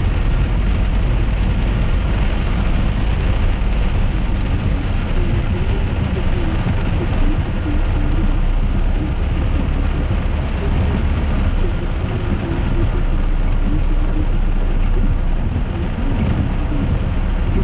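Rain falling on a moving car, with steady road and engine noise heard from inside the cabin.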